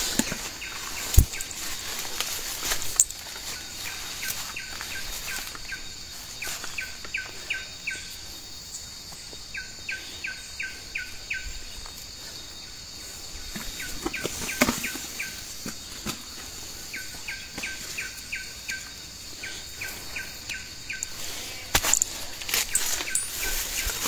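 A forest bird calling in several runs of quick, evenly spaced short falling notes, over a steady high drone of insects. A few sharp snaps and rustles come from an elephant tearing at leafy undergrowth as it feeds.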